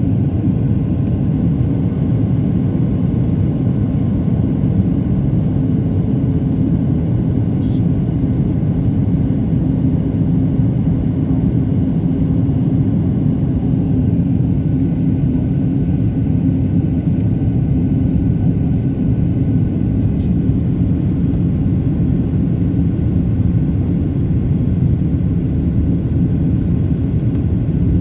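Steady, unchanging low rumble of a running engine, with a faint steady hum, as from a vehicle in motion.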